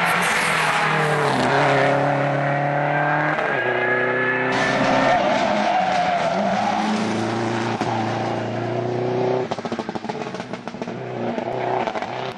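Rally car engine pulling hard under acceleration, its pitch rising and then dropping at gear changes about one and a half, three and a half and seven and a half seconds in. After about nine and a half seconds it turns quieter, with a rapid crackle.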